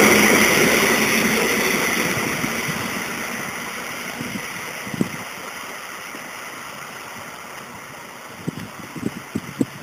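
SKM commuter train pulling away, its running noise fading steadily as it recedes down the line. There is a single sharp tick about five seconds in and a few faint knocks near the end.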